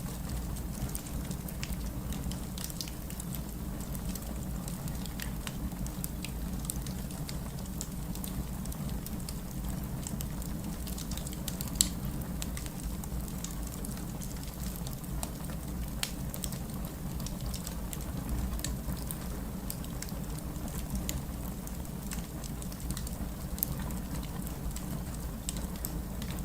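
Steady rain mixed with a crackling wood fire: a constant rain hiss with scattered sharp pops and snaps from the fire, one louder pop about halfway through.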